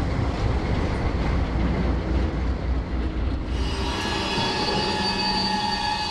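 Freight train running, with a heavy low rumble of wheels on rail. About three and a half seconds in, the wheels start squealing: several high, steady tones held over the rumble.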